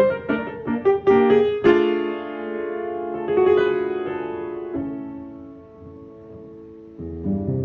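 Piano playing: a quick run of short notes for the first second and a half, then held chords that ring and slowly fade, with a new low chord struck near the end.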